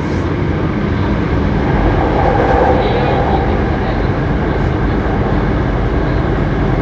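Running noise of a Hankyu 7300 series electric train at speed, heard on board: a steady rumble of wheels, rails and traction motors, with a brief hum rising out of it about two seconds in. The car is one singled out for its unusual running noise.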